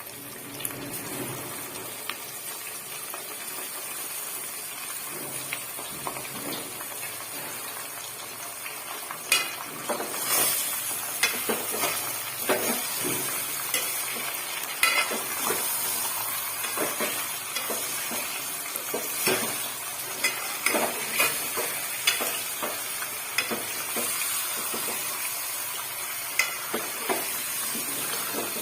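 Chicken pieces frying in hot mustard oil with onions and whole spices, a steady sizzle. From about a third of the way in, a spoon knocks and scrapes against the pot again and again as the chicken is stirred.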